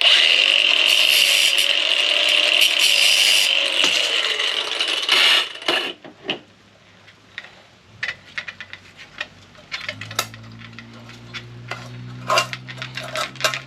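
A power tool runs for about five and a half seconds with a steady high whine, then stops, followed by scattered small metallic clicks and knocks as parts of a microwave are worked loose.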